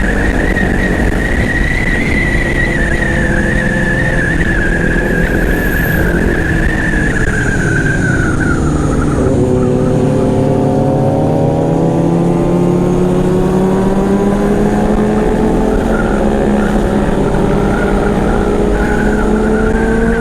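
Honda CBR500R with an aftermarket exhaust running at speed under heavy wind rush on the microphone. The engine note drops about halfway through, then climbs slowly and steadily as the bike pulls through a gear.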